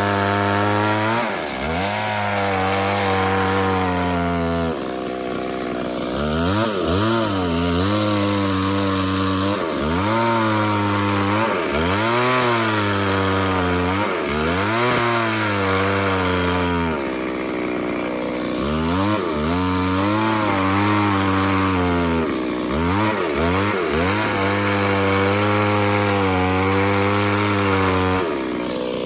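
Two-stroke chainsaw running at high revs while cutting wood. Every few seconds its pitch drops sharply and climbs back as the throttle is eased and squeezed again.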